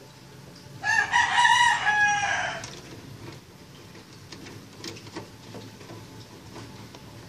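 A rooster crowing once, a call of about two seconds starting about a second in, followed by a few faint ticks.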